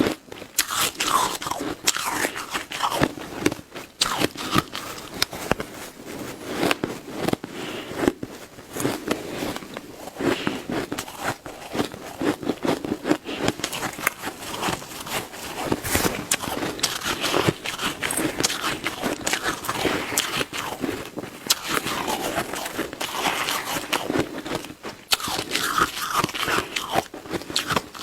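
Shaved ice being bitten and chewed close to the microphone: a continuous run of crisp crunches and crackles with no pause.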